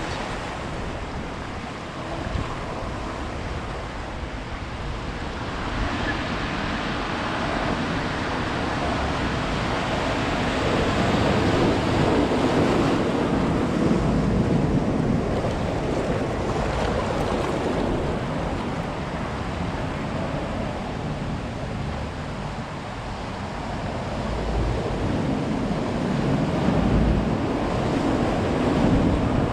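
Ocean surf: waves breaking and washing up the beach as a continuous rush, swelling louder twice, in the middle and near the end.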